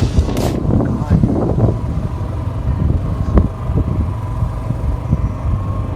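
Motorbike riding, a steady low rumble with wind buffeting the microphone.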